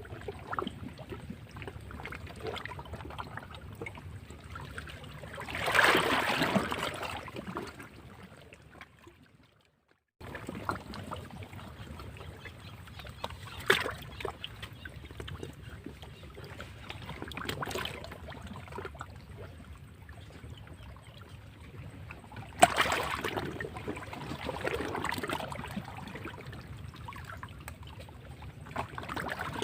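Sea waves breaking and washing over rocks, a constant splashing wash. Larger waves break about six seconds in and again about three quarters of the way through. Around ten seconds in, the sound fades out and then comes back abruptly.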